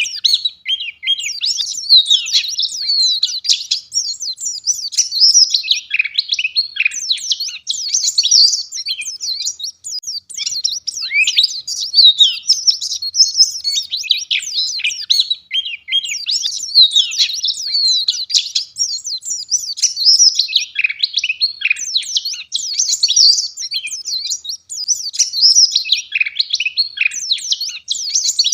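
White-eye (pleci) singing a dense, fast, high-pitched twittering song without pauses, in phrases that swell every two or three seconds.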